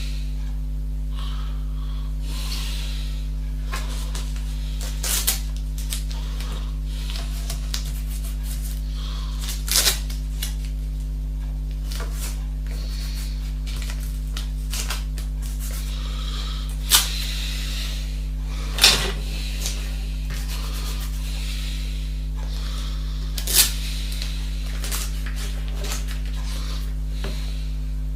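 A steady low hum throughout, with a few scattered short clicks and rubbing sounds, about five in all, the sharpest near the middle and about two-thirds of the way through.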